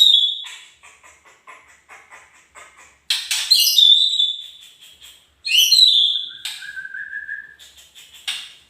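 White-rumped shama (murai batu) singing: three loud bursts of quick, varied whistled phrases that sweep down in pitch, about three seconds apart. Rapid softer chatter fills the gaps, and a long, slightly rising lower whistle comes after the third burst.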